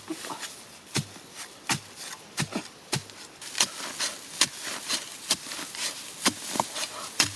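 A series of sharp knocks, irregular, about one or two a second, like a hand tool striking wood or earth.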